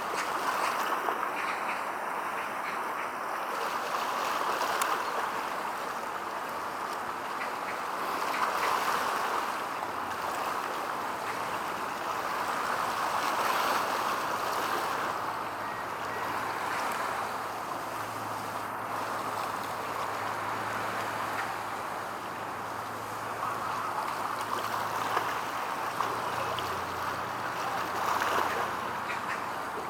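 Steady outdoor wash of water and wind noise that swells and eases every few seconds. A low steady hum comes in about ten seconds in and fades out a few seconds before the end.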